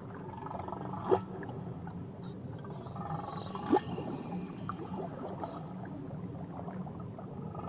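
Whale song underwater: a steady low hum under whistling calls, with two sharp upward-sweeping cries, about a second in and about halfway through.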